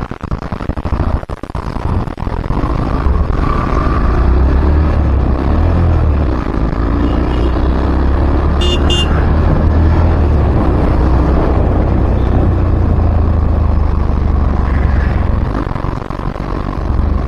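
Steady, loud low rumble of road traffic and wind while travelling on a city road, with a short double vehicle-horn toot about nine seconds in.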